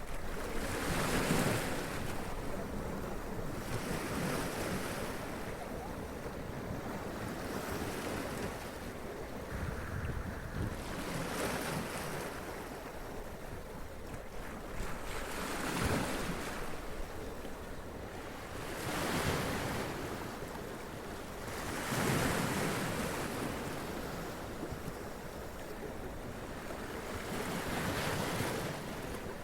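Sea waves splashing against and running up rocks, each wave a surge of spray and wash arriving every three to four seconds over a steady rush of surf.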